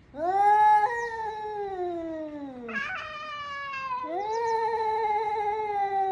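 A cat yowling in three long, drawn-out calls, each rising at the start and then sliding slowly down in pitch.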